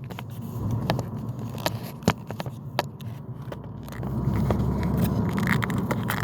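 Car cabin road noise, a steady low rumble that grows louder about four seconds in, with scattered small clicks and scrapes over it.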